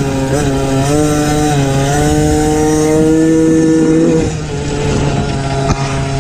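MXF 50 Pro Racing mini motocross bike's small engine, heard onboard, revving up and down for the first couple of seconds and then held steady at high revs. About four seconds in the throttle shuts off and the note drops to a lower, steady pitch.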